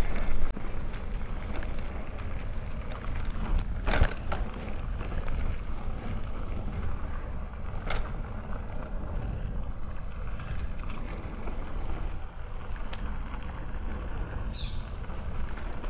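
Mountain bike being ridden on a trail: a steady low rumble of tyres and wind on the microphone, with a sharp knock about four seconds in and a lighter one about eight seconds in.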